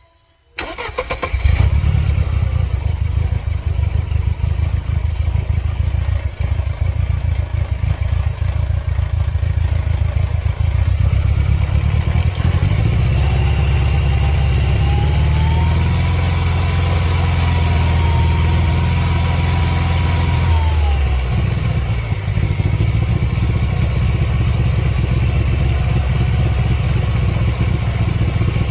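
1999 Mercedes-Benz C230 Kompressor's supercharged four-cylinder engine starting about a second in, then running. From about 13 to 21 seconds it runs at higher revs with a whine, then drops back to idle.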